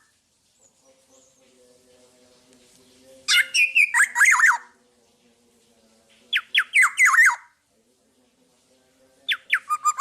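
Black-naped oriole (kepodang) singing: three short phrases of quick, downward-slurred whistled notes, about three seconds apart. A faint steady low hum lies underneath.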